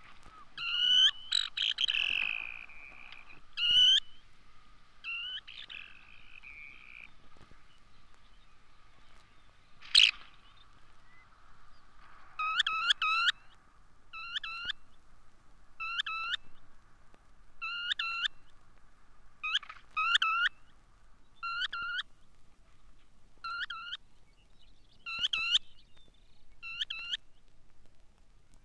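Baird's sandpiper calling: a few short calls and one longer drawn note at first, then from the middle on a run of short, sharp calls about every second and a half. A single sharp click about ten seconds in is the loudest sound.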